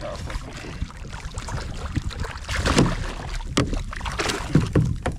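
A small yellowfin tuna being grabbed and hauled aboard a kayak: several knocks and thuds against the hull over a steady wash of wind and water.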